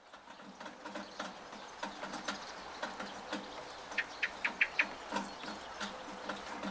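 Monsoon rain dripping and pattering, with irregular drops tapping from a rain gutter. About four seconds in comes a quick run of about six short, sharp chirps from a bird.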